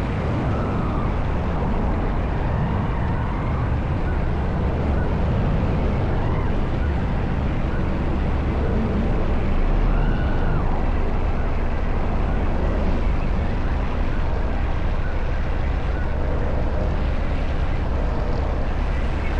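Honda CB190R motorcycle's single-cylinder engine running while riding, heard over a steady rush of noise that is strongest in the low end.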